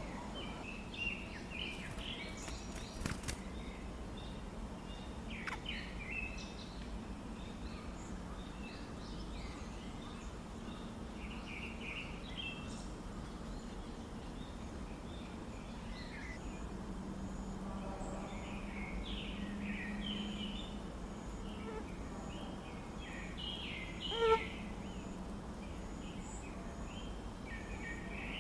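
Small birds chirping in short, scattered high calls over a steady low hum, with one short, louder low note near the end.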